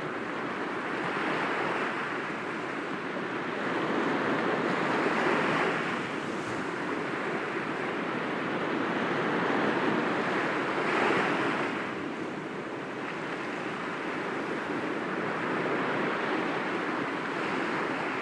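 Sea waves breaking gently against rocks: a continuous wash that rises and falls in slow swells, the strongest about five and eleven seconds in.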